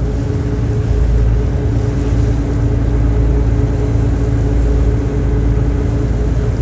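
Car ferry's diesel engines running with a steady drone and low rumble.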